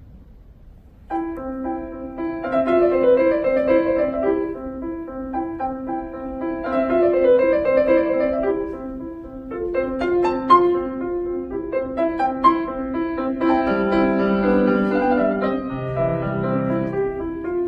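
Piano solo beginning about a second in: a steady repeating accompaniment figure of alternating middle notes with a melody line above, and deeper bass notes entering near the end.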